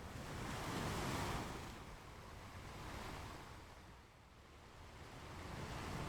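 Ocean waves breaking and washing onto a beach: a wave swells loudest about a second in, a smaller one around three seconds, and the surf builds again near the end.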